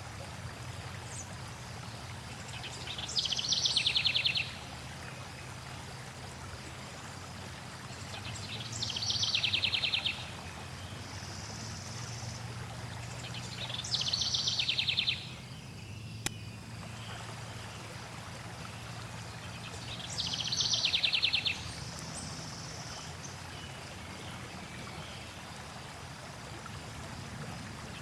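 Flowing water runs steadily while a songbird sings a rapid, high trilled phrase of about a second and a half, which repeats about every six seconds, four times, and starts again at the very end.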